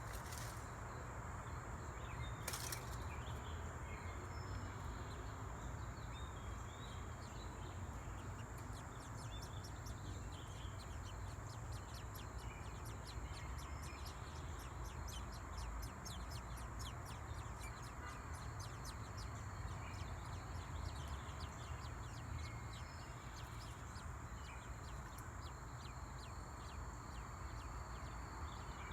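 Faint, scattered bird chirps over a steady low rumble and a thin, steady high-pitched tone. There is a sharp knock near the start, and a run of fast, faint ticking for several seconds in the middle.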